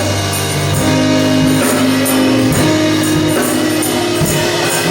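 Gospel praise band playing between sung lines: held chords, with a tambourine shaken in a steady rhythm.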